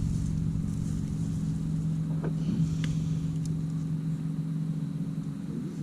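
Steady low engine-like hum with a low rumble underneath, and a few faint clicks; the rumble drops away near the end.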